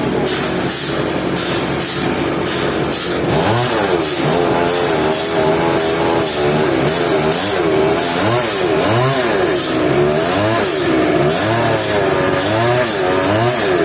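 A small petrol engine, running steadily at first and then revved up and down again and again, its pitch rising and falling about once a second.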